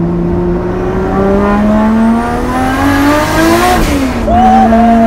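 Nissan Cefiro A31 drift car's turbocharged engine pulling hard through a gear from inside the cabin. The revs rise steadily for nearly four seconds, then drop sharply at an upshift and settle into a steady run. A short whistle-like sound comes just after the shift.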